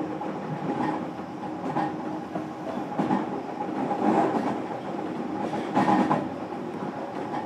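Running sound from inside a JR Kyushu 305 series electric train's motor car at speed: a steady rumble, with the wheels clacking over rail joints several times.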